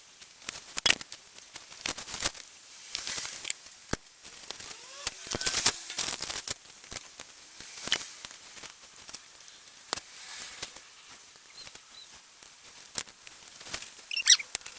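Irregular sharp clicks and knocks of metal parts and hand tools being handled as valve springs, top caps and collets are fitted to a cylinder head.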